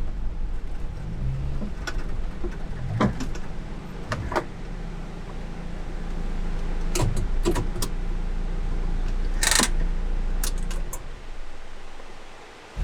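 Light truck's engine running with a steady low hum, broken by scattered clicks and knocks. The engine sound falls away near the end.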